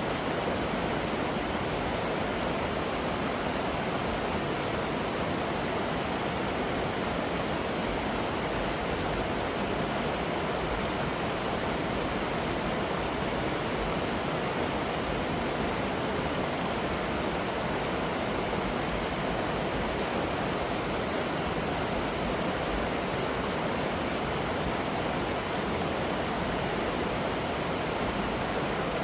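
A waterfall's steady rush of falling water, an even noise that doesn't change.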